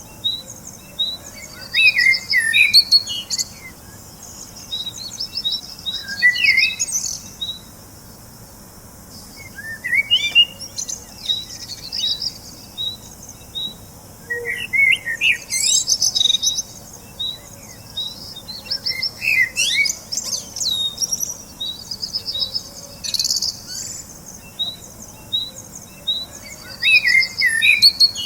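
Birds singing: a steady series of short, high repeated notes, with quick warbling phrases breaking in every few seconds.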